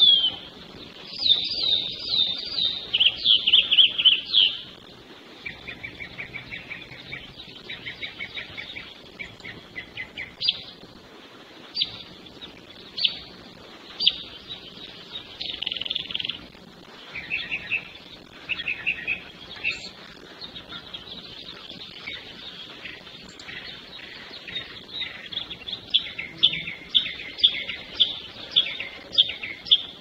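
Songbirds singing: runs of quick falling notes at the start, then fast chipping trills, and a burst of rapid repeated notes near the end.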